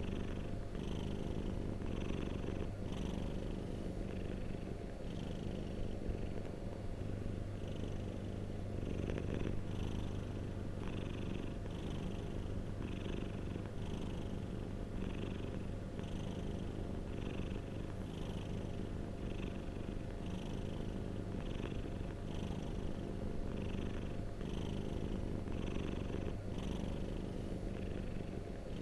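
Domestic cat purring continuously: a steady low rumble that swells and eases in a regular rhythm, about once a second, with each breath in and out.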